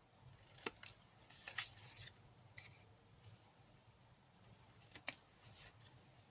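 Scissors cutting through card: a run of short, irregular snips in the first couple of seconds, then a few more about five seconds in.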